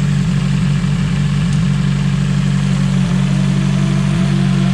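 Nissan S14 240SX engine idling steadily while it warms toward operating temperature, its radiator fans switched off by a pulled fuse so the thermostat can open.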